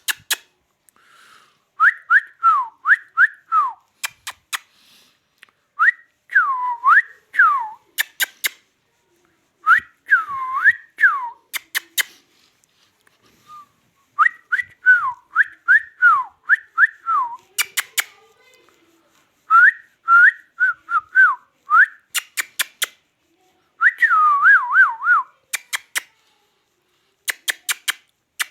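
Indian ringneck parrot whistling in bursts of quick rising and falling whistles, with sharp clicks between the phrases.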